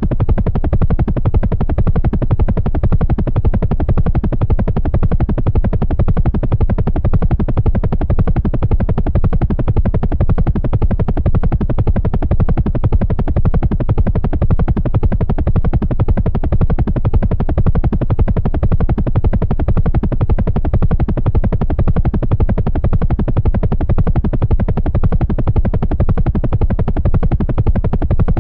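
Helicopter rotor chopping steadily in flight, a fast even pulsing with a low drone beneath.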